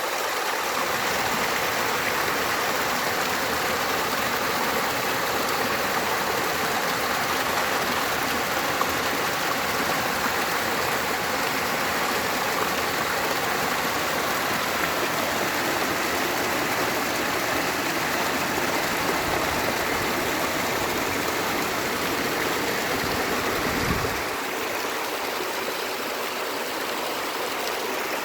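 A stream running steadily, a continuous rush of water. Late on there is a brief low thump, after which the deepest part of the rush falls away a little.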